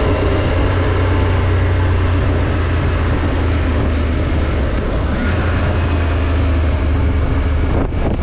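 Triumph Tiger 900 GT's three-cylinder engine running steadily with a constant rush of wind and road noise.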